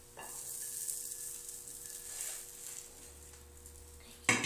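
A crepe sizzling in a lightly oiled frying pan, the hiss fading after a couple of seconds, then a single sharp knock shortly before the end.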